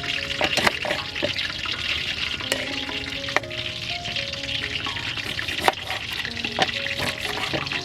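Food frying in hot oil, a steady sizzle, with a metal utensil clicking against the pan now and then, over soft background music.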